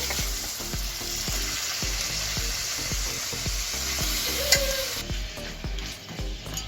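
Raw chicken pieces sizzling as they fry in hot butter and oil in a kadai, a steady hiss that eases a little near the end.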